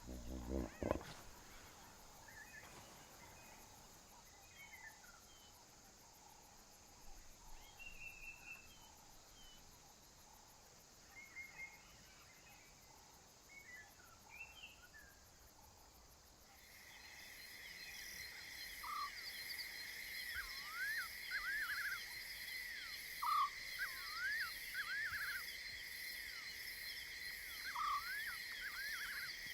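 Savanna ambience: the tail of a lion cub's call in the first second, then scattered faint bird chirps. About halfway through, a steady high-pitched insect chorus with a pulsing buzz sets in, with short sweeping bird calls over it.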